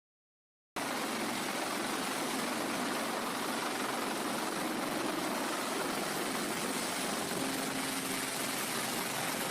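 Steady, unbroken noise of an aircraft's engines mixed with wind, starting abruptly after a brief silence, with no clear rhythm or change in pitch.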